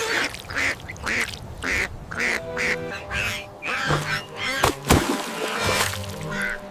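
A duck quacking over and over, about twice a second, over background music, with one sharp click about five seconds in.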